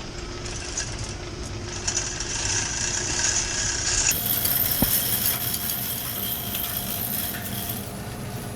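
Manual chain hoist being hauled to lift a heavy turbine casing part, its chain rattling and clinking over steady machinery-room noise, with one sharp metallic knock about five seconds in.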